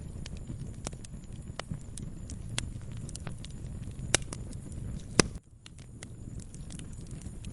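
Wood fire burning in a fireplace: a steady low rumble of flames with irregular crackles and pops, one sharp loud pop about five seconds in, then a brief dip in the sound.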